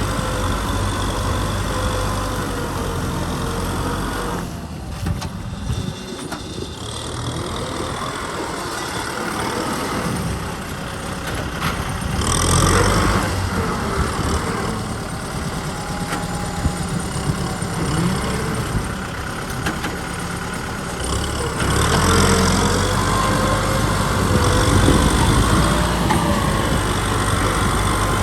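Kubota M6040 SU tractor's four-cylinder diesel engine running under load while plowing. The note dips for a couple of seconds about five seconds in, then swells louder again later on.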